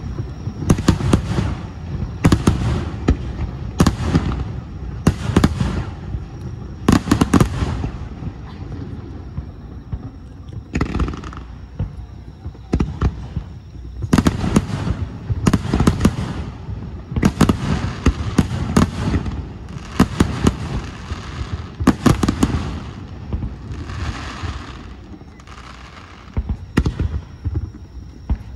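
Aerial firework shells bursting in quick succession, sharp bangs with low booming and crackle, roughly one to two a second. The barrage thins out for a few seconds about a third of the way in and again near the end before picking up.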